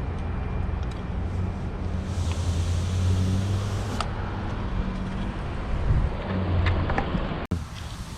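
A motor vehicle engine running steadily with a low hum, with a sudden cut near the end.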